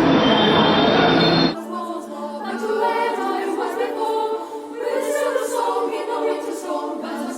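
A loud, dense passage of music cuts off abruptly about a second and a half in. Group singing in a choir-like style follows, over a steady low drone.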